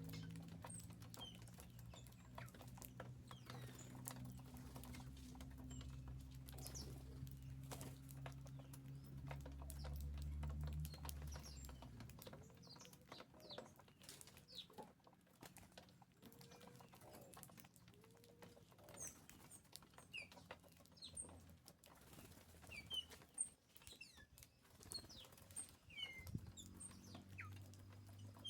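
Birds at an open feeder: faint scattered pecking and tapping with wing flutters and short high chirps. A low steady drone underneath fades out about halfway through.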